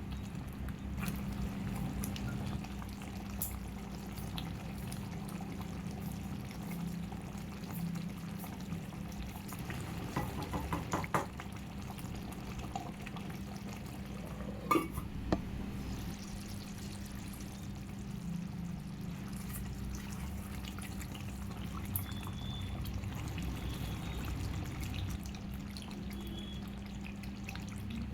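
Liquid being poured and handled in a kitchen over a steady low hum, with a few sharp clinks about a third of the way in and again around halfway.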